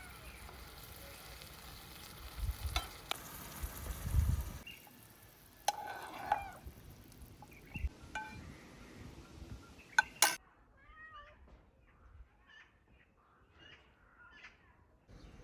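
Food sizzling in a frying pan, with stirring knocks and scrapes, for the first few seconds. Then come scattered clicks and later a string of short chirping calls over a quiet background.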